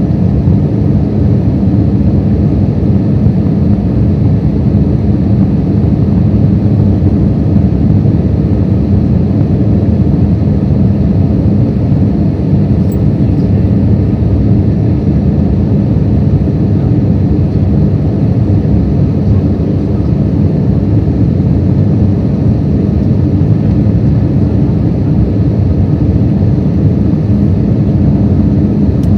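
Airbus A320-200 airliner heard from inside the cabin while rolling out on the runway after touchdown: a loud, steady low rumble of the engines, airflow and wheels.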